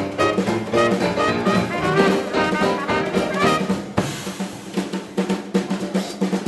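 A 1920s-style jazz dance orchestra playing, with brass and drum kit. About four seconds in there is a cymbal crash, followed by a stretch of drumming before the band comes back in.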